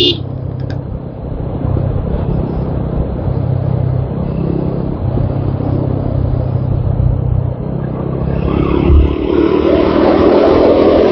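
TVS Apache RTR 200 4V single-cylinder motorcycle engine running under way, its pitch shifting with the throttle. It grows louder and fuller near the end.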